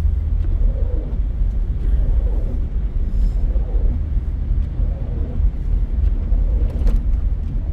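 Steady low rumble of a 2006 Toyota 4Runner 4x4 driving on snow-covered roads, with engine and road noise.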